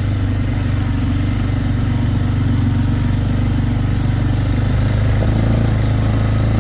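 Four-wheeler (ATV) engine running steadily.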